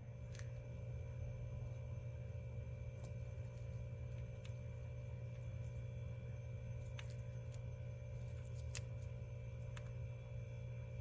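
Steady low electrical hum with a few thin high steady tones above it, and about half a dozen faint sharp clicks at irregular intervals.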